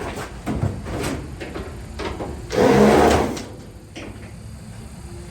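Sheet-metal panels of a GE Profile dryer cabinet being handled during disassembly: scattered clicks and knocks, then a loud scraping rush lasting about a second, about two and a half seconds in.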